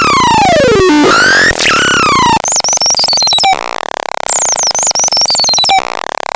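Electronic sound effect playing in a repeating loop: a falling synthetic tone glide that repeats about every second and a half, then about two and a half seconds in a switch to a different looped pattern of high warbling chirps over steady tones.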